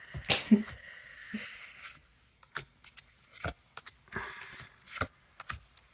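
Pokémon trading cards being handled and flipped through one by one: soft sliding rustles and a scatter of small sharp clicks.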